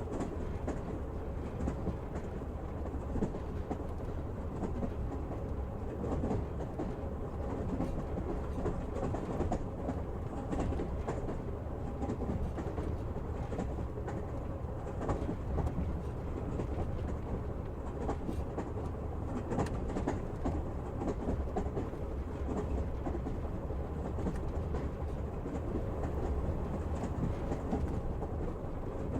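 Train running along the track: a steady rumble of wheels on rails, with a few faint scattered clicks.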